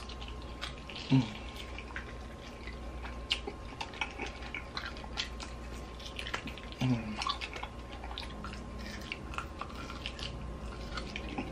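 Wet chewing and mouth smacking as meat is gnawed off a tomahawk steak bone, with quick clicks throughout. There are two short hums of enjoyment, about a second in and again near seven seconds.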